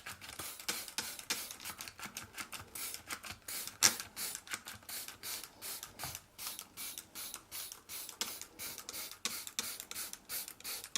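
Whirlpool Actifresh air-conditioner cleaner sprayed onto the evaporator fins in quick short hisses, about three or four a second, one louder than the rest about four seconds in.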